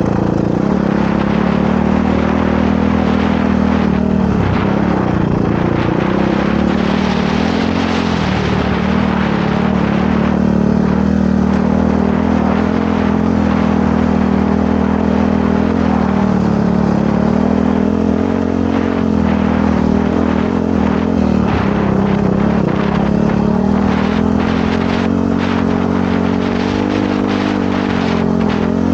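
Motorcycle engine running hard under changing throttle, its pitch rising and falling again and again as the bike speeds up and slows down. Scattered short knocks are heard in the second half.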